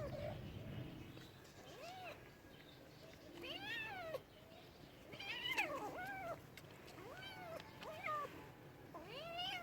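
Domestic cat meowing repeatedly: about five drawn-out meows, each rising then falling in pitch, with two overlapping in the middle.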